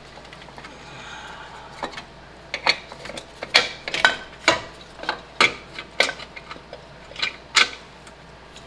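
Hand tools working on metal: about a dozen sharp metallic clicks and knocks at uneven intervals through the middle stretch, each ringing briefly, as engine-mount bolts and brackets are worked on.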